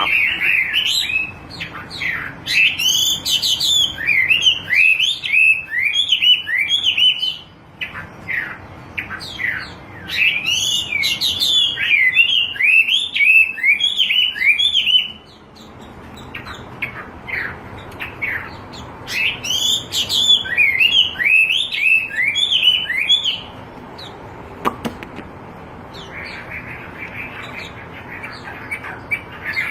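Wambi bird singing in three long bouts of rapid, repeated chirping notes separated by short pauses, then a softer, even trill near the end.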